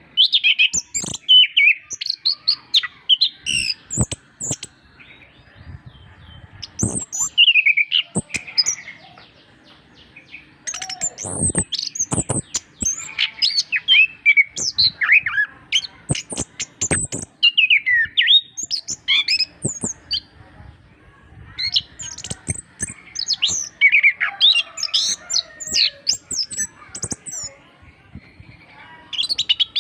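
Chestnut-capped thrush (anis kembang) singing a fast, varied song of chirps, whistles and warbles in phrases broken by short pauses, with a few sharp knocks between phrases.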